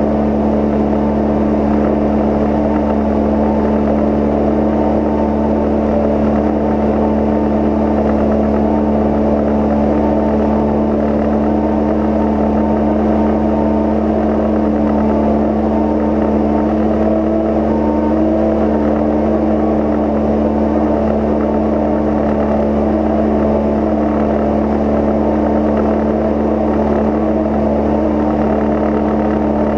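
Cozy Mk IV's pusher engine and propeller droning steadily in cruise flight, with a wavering buzz riding over the engine note from the loose gap-seal tape over the wing spar gap fluttering in the airflow.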